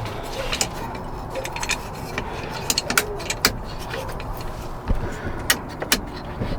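Hands working through an old truck's wiring and switches: irregular sharp clicks and light rattles, a few louder ones in the second half, over a steady background hiss.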